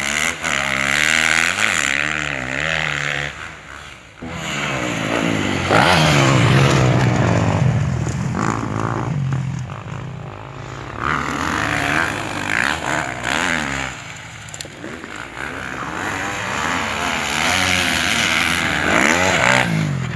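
Sidecar motorcycle engines revving and passing by, their pitch rising and falling again and again; loudest about six seconds in.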